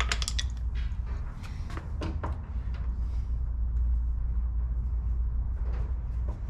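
Scattered clicks and knocks of Mercedes 450 SLC door trim being slid and worked loose by hand, over a steady low hum.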